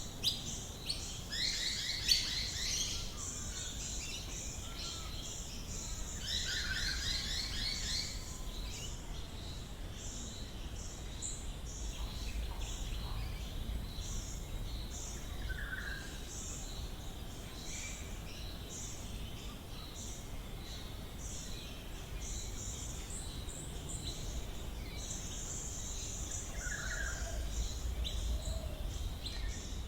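Several wild Australian bush birds calling at once in a morning chorus: many short, repeated chirps and some fast trills, busiest in the first few seconds, over a steady low rumble.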